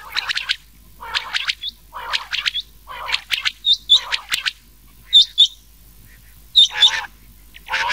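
Rain quail calls mixed with the calls of another quail (batair), a lure recording for quail hunting: short clusters of rapid, sharp notes come about once a second, some topped by high two-note chirps.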